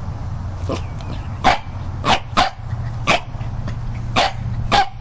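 A dog barking in short, sharp single barks, about seven at uneven intervals, over a steady low rumble.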